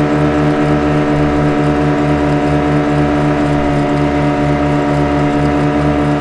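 Motorboat engine running steadily at constant speed: an unchanging drone with a rapid, even throb.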